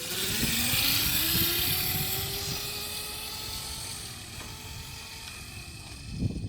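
Hyper 350 kids' dirt bike pulling away, its motor whine rising steadily in pitch over the first few seconds, then levelling off. Under it is a hiss of tyres and wind, fading slowly as the bike moves off.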